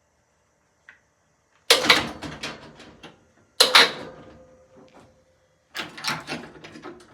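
Three bursts of clattering and rattling knocks, about two seconds apart, as the overhead winch is let down and its rigging unhooked from the shelf slab.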